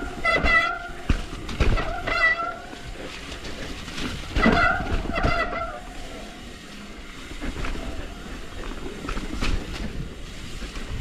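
Mountain bike disc brakes squealing in short, shrill bursts as the rider brakes, with the rattle and knocks of the bike over rough trail. The squeal comes in the first couple of seconds and again about four and a half seconds in, then eases off, leaving the trail rattle.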